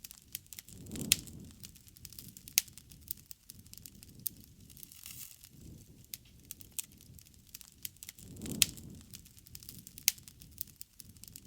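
Bonfire burning, wood crackling with irregular sharp pops, two louder pops about a second in and near the end, over the low rush of the flames.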